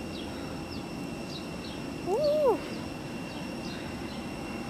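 A bird chirping repeatedly in short falling notes, about two a second, over steady outdoor background noise. A person calls out a loud "Woo!" about two seconds in.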